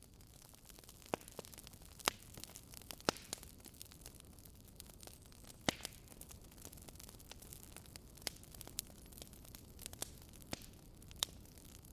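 Wood fire in a fireplace crackling: sharp irregular pops from the burning logs over a steady low hiss.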